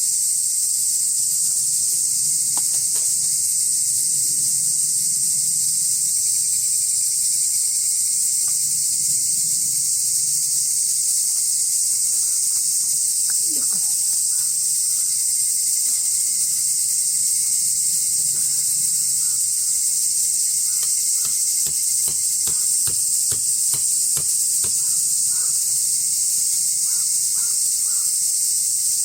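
A dense, steady chorus of insects: a high, unbroken hiss. In the second half come a scatter of small clicks and knocks.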